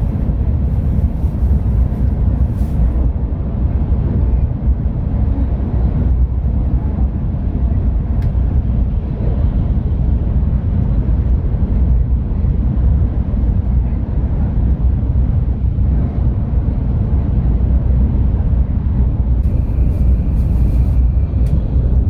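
Steady low rumble of an N700-series Shinkansen train running, heard from inside the passenger car.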